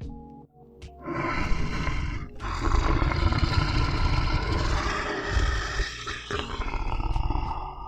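A big cat roaring in three loud, rough calls: a short one about a second in, a long one lasting several seconds, and a third near the end.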